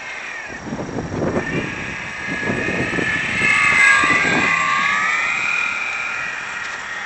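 Electric motor and propeller of an FMS PT-17 radio-controlled biplane whining, the pitch wavering up and down and growing loudest about four seconds in before easing off. Gusts of wind noise on the microphone underneath in the first half.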